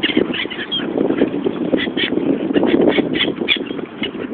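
A crowd of waterbirds squawking and quacking while being fed: many short, overlapping calls in quick succession.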